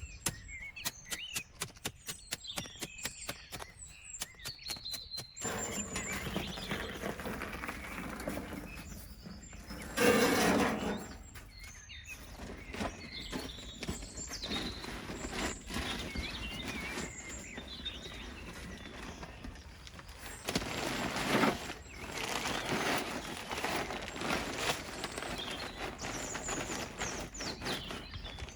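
Rapid chopping strokes, about four a second, for the first five seconds. Then rustling with birds chirping throughout, with two louder bursts of rustling, one near the middle and one about three quarters of the way in.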